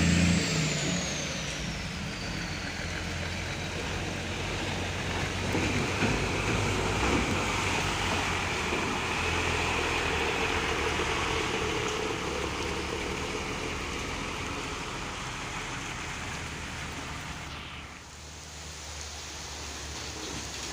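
A vehicle engine running low under a steady hiss of noise. A louder engine note drops away just after the start, and a high whine falls in pitch over the first couple of seconds.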